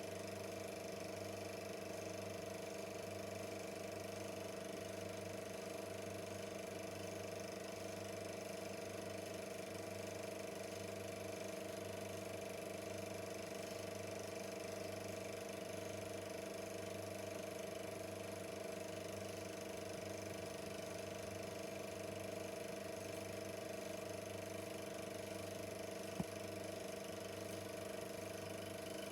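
Super 8mm film projector running steadily: a constant motor hum and mechanical whir with a slight regular pulse, and one sharp click near the end.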